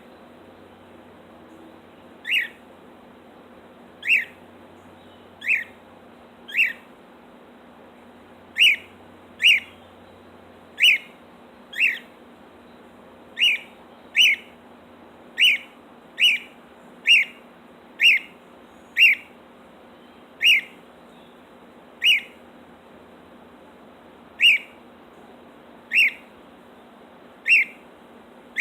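A cockatiel gives loud, short whistled chirps that fall in pitch, repeated about every one to two seconds. These are the contact calls of a bird left alone, which its owner expects to be calls for attention.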